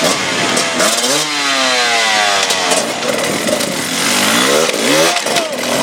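Enduro motorcycle engine revving: the revs rise about a second in, fall away over about two seconds, then climb again near the end.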